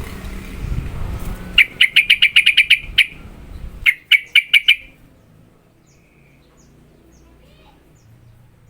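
Yellow-vented bulbul (trucukan) giving its rapid 'ropel' call: a fast run of about ten sharp, loud notes, a short pause, then five more, after a low rustle at the start.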